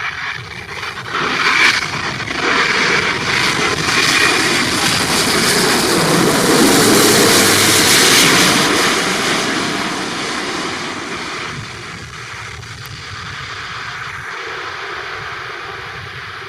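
Airbus A350-900 airliner on final approach to land, its Rolls-Royce Trent XWB jet engines passing low overhead: a rushing jet roar that builds, is loudest about halfway through, then fades as the aircraft moves away.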